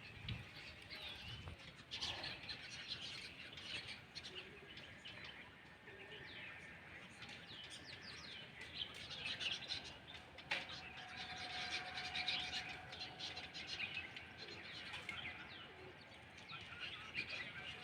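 Many small birds chirping and twittering together in a busy, overlapping chorus, growing denser in the second half, with one sharp click about ten seconds in.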